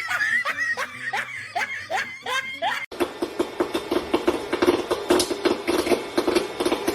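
A person laughing in quick, repeated bursts. After a sudden cut about three seconds in, comes a rapid run of clicks and knocks over a steady low hum.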